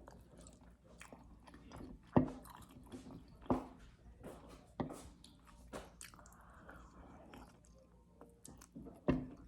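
Close-up chewing of oxtail meat, rice and broccoli: wet mouth smacks and clicks at irregular intervals, a few louder smacks standing out about two, three and a half, five and nine seconds in.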